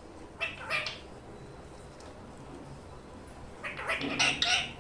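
Pet budgerigar calling in two short bursts of high chatter, a brief one near the start and a longer one near the end.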